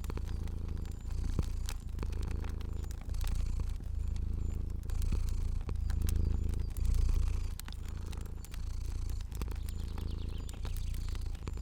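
Domestic cat purring steadily, the low rumble swelling and easing about once a second with its breathing. Small clicks and pops of a crackling fire are scattered over it.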